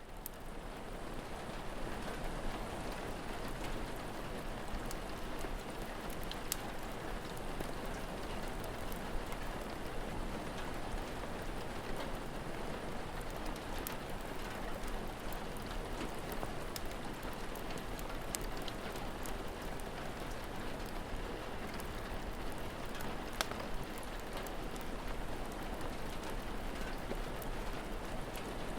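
Steady rain falling, with scattered sharp crackles and pops from a wood fire, rising in at the very start.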